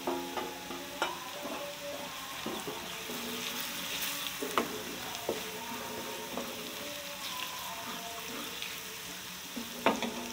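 Garlic and spice masala sizzling in hot oil in a kadhai while a steel spoon stirs it, clinking and scraping against the pan several times, with the sharpest clink just before the end.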